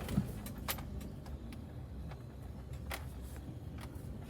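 Vehicle rolling slowly, heard as a steady low rumble with a few sharp clicks and light rattles.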